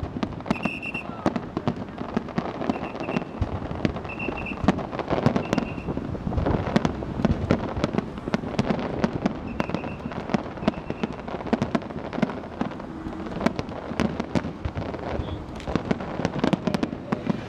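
Aerial fireworks display: a continuous barrage of shell bursts, bangs and crackles, with short high tones now and then.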